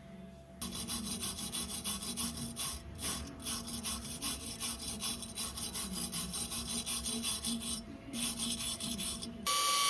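High-torque impact wrench hammering in a long rapid rattle, with a brief break near the end before it stops.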